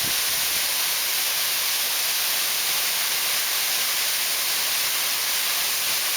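Mountain waterfall running high with spring snowmelt: a steady rush of falling water that does not change.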